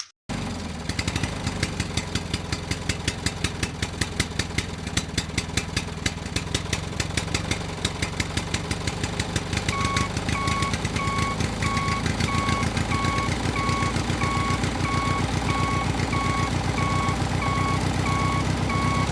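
A tractor-type engine running with a fast, even chugging. From about halfway a beeper joins in, repeating at a steady rate like a reversing alarm.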